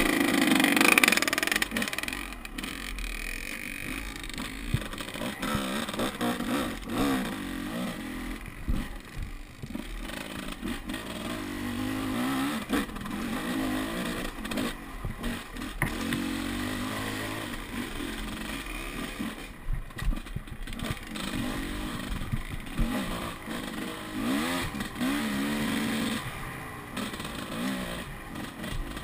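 Enduro dirt bike engine revving up and down again and again, loudest about a second in, with scraping and clattering along the way.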